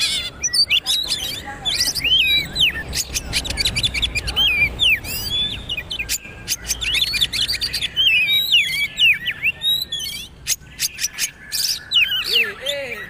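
Oriental magpie-robin (kacer) singing a fast, varied song of whistled sweeps and sharp clicks, without a break.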